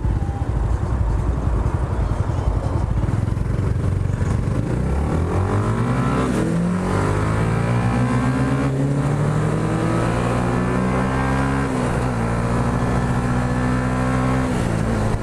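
Yamaha YZF-R125 motorcycle's single-cylinder 125 cc engine under hard acceleration over wind rush: after a few seconds of mostly wind noise the revs climb steeply, then hold high with brief drops in pitch twice near the end, like gear changes.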